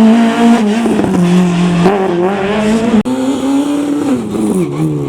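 Rally car engine running hard at high revs on a gravel special stage, its pitch dipping and climbing again with throttle lifts and gear changes, with a sharp momentary cut about three seconds in.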